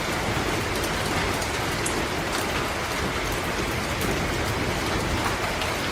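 Steady rain falling in a forest: an even hiss of drops on leaves and ground, with scattered single drops ticking through it.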